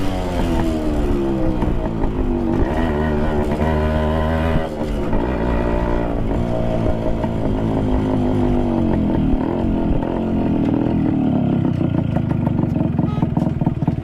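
Yamaha RX100's two-stroke single-cylinder engine with the mesh removed from its silencer, ridden on the road. The exhaust note falls and rises with the throttle and gear changes, then drops near the end to low revs where the separate firing beats can be heard.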